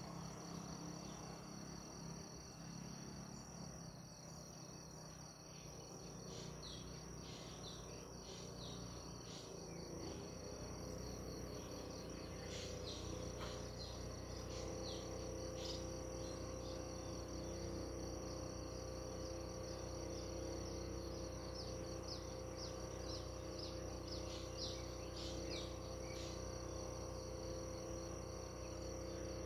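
Insects trill steadily at a high pitch while birds give many short, high chirps through the middle. A low steady hum runs underneath.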